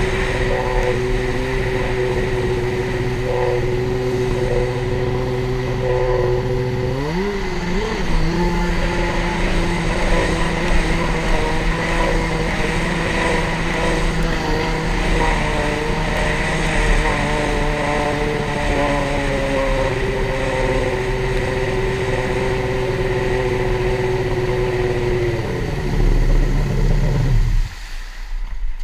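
Yamaha SuperJet stand-up jet ski engine held at high revs against its rev limiter. It steps up to a higher steady pitch about seven seconds in, holds there, then drops off near the end.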